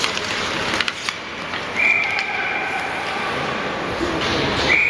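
Ice hockey game sounds in a rink: sharp clacks of sticks and puck over a busy background noise, with a steady high tone heard twice, each lasting about a second and a half.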